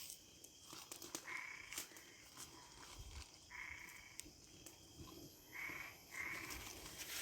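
An animal calling in the night, four short nasal bleat-like calls of about half a second each, a sound likened to a duck's.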